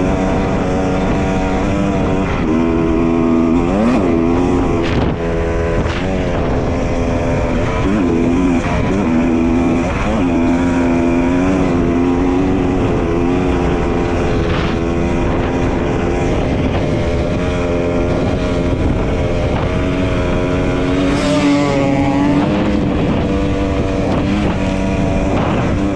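Dirt bike engine running under way, its pitch repeatedly rising and then dropping back as the throttle is worked.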